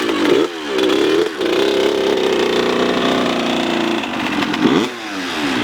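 Small dirt bike engine running hard, its pitch dipping and climbing back up three times with throttle changes and holding steady in between.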